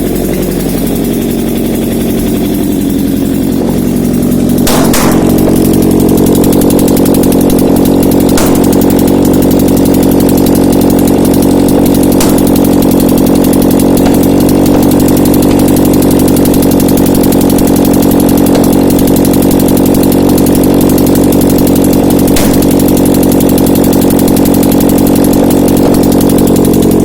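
Nissan QR25DE 2.5-litre inline-four petrol engine running on a test stand: its revs change and the level rises over the first four seconds or so, then it runs steadily, with a few sharp clicks here and there.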